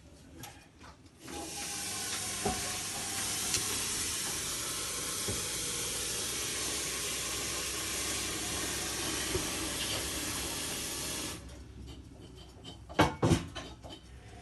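Zanussi Lindo 100 washing machine taking in water: a steady rush of water through the inlet valve and detergent drawer starts about a second in and cuts off sharply as the valve shuts. A couple of short knocks follow near the end.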